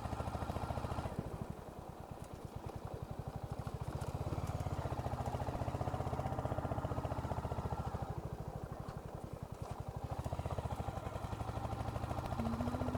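Royal Enfield Hunter 350's single-cylinder engine running at low revs, with a steady, even beat of firing pulses.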